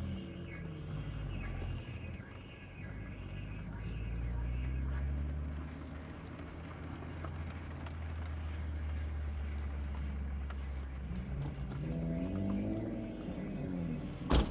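BMW 135i's turbocharged straight-six running at low speed, a steady low drone whose pitch drifts gently up and down. A single sharp knock just before the end.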